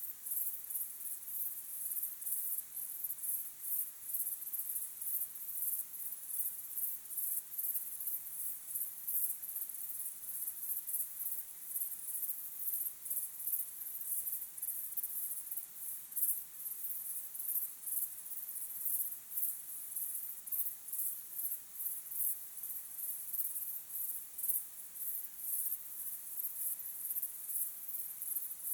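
Crickets chirping in a steady, very high-pitched chorus with a rapid, even pulsing.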